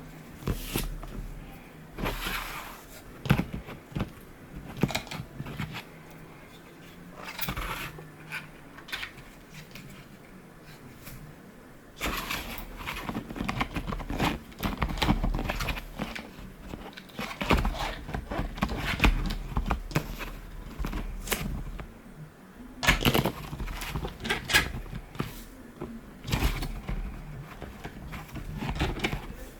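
3D-printed plastic stand parts being handled and fitted together by hand: irregular clicks, taps and knocks of plastic on plastic, with a livelier stretch in the second half.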